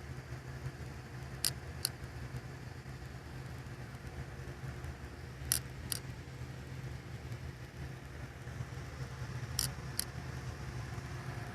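Geothermal heat pump running with a steady low hum. Three pairs of short sharp clicks come about every four seconds.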